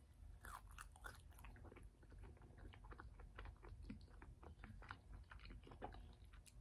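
Faint close-up chewing of a soft sandwich, with small irregular wet mouth clicks.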